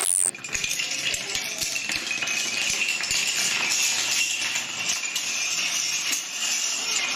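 Dominoes toppling in a long chain: a dense, continuous clatter of many small clicks.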